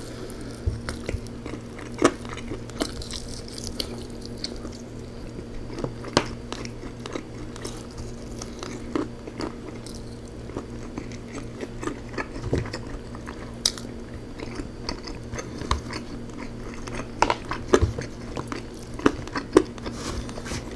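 A person biting and chewing a rotisserie chicken wing: irregular wet smacks and short clicks scattered throughout. A steady low hum runs beneath.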